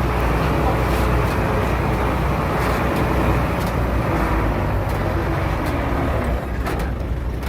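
Heavy diesel engine of earthmoving machinery running steadily under load, with a strong low hum.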